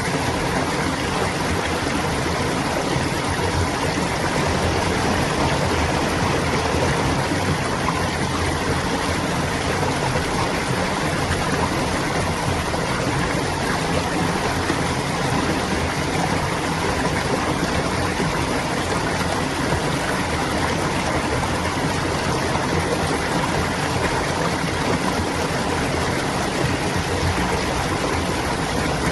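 Clear stream water flowing and babbling steadily, with no breaks or separate events.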